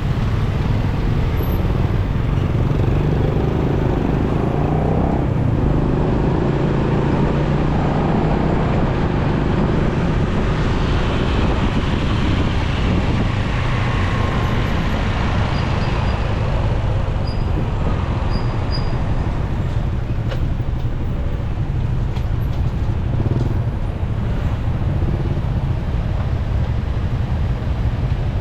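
Motorcycle riding in city traffic: a steady engine and road rumble with the sound of surrounding vehicles, and a few short high beeps a little past halfway.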